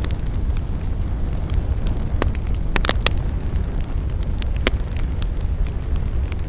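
Wood fire burning in a fireplace: a steady low rumble of flames with irregular sharp crackles and pops, several loud pops close together about three seconds in.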